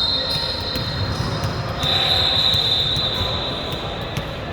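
Echoing sports-hall sound of a volleyball game: scattered ball hits and bounces over a low room rumble. A high steady tone is held briefly near the start and again for about two seconds midway.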